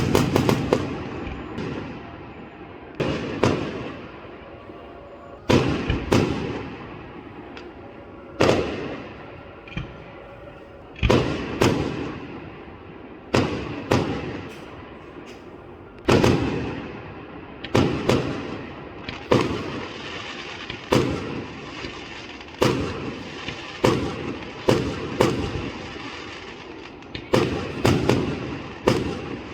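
Aerial fireworks display: shells bursting one after another, a sharp bang every one to three seconds, each fading away in a rumble that echoes off the surroundings.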